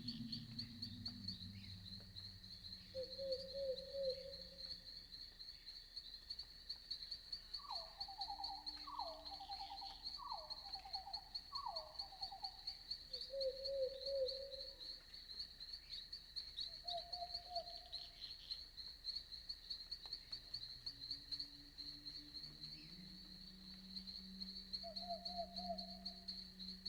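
Night forest ambience: crickets chirping in a steady, fast high trill throughout, with short pulsed calls of other night animals now and then, including a run of four falling calls about eight seconds in. A low drone sits under it at the start and comes back near the end.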